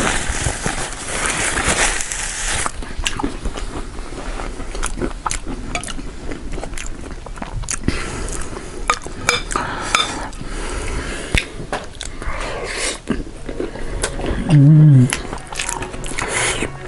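Close-miked eating of crisp fried nimki and spicy noodles: many crunching bites, chewing and clicks of cutlery against the bowl. About two thirds of the way through, a short loud hum from one of the eaters.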